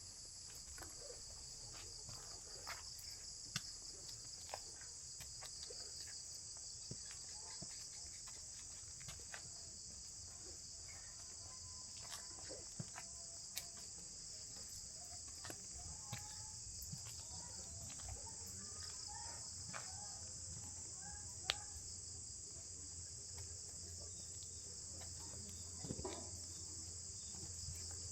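Steady high-pitched insect chorus, with scattered faint ticks and clicks.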